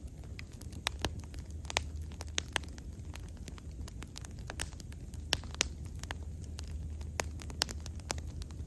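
Wood bonfire burning: irregular sharp crackles and pops, several a second with a few louder snaps, over a low steady rumble of the flames.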